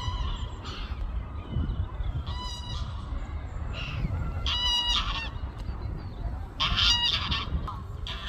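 Water birds on a lake calling: short, loud, pitched calls, each under a second, about every two seconds, over a steady low rumble.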